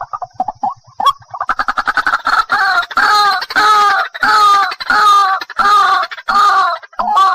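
White-breasted waterhen calling: a fast stuttering run of short notes builds into a series of loud, harsh repeated 'ruak' calls, about two a second.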